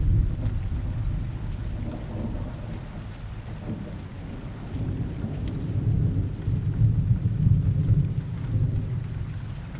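Rain ambience: steady rain with low rolling thunder, the rumble easing after the start and swelling again through the second half.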